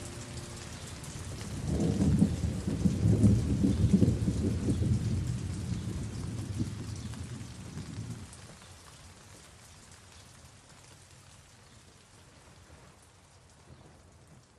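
Steady rain falling, with a roll of thunder that starts about two seconds in, rumbles for several seconds and dies away; the rain then fades out near the end.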